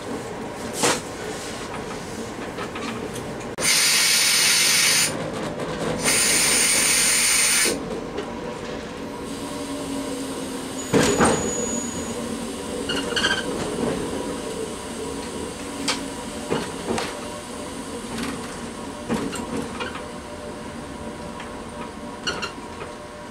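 Train cab ride at low speed: steady running noise with a constant hum. Two loud hissing bursts of about one and a half seconds each come about four and six seconds in. A sharp clunk about eleven seconds in is followed by scattered knocks of wheels over rail joints or switches.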